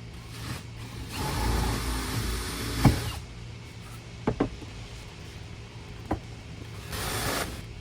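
Power drill boring holes through a seat-back panel: a run of about two seconds ending in a sharp crack, then a few clicks and knocks, then a second, shorter run near the end.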